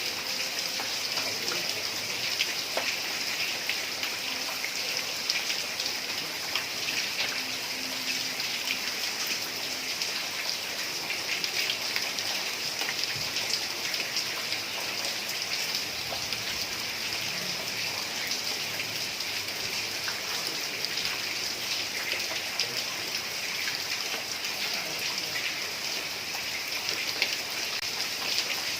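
Heavy rain falling on a tiled roof: a steady hiss with many individual drops ticking sharply on the tiles.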